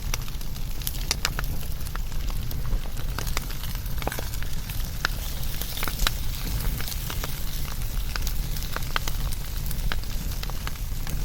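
Wood fire burning with a steady low rumble and irregular sharp crackles and pops from the burning wood.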